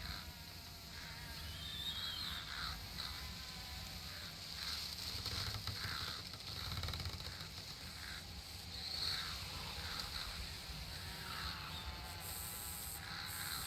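Summer outdoor nature ambience: insects buzzing and birds chirping on and off over a steady low rumble, with a brief high buzz near the end.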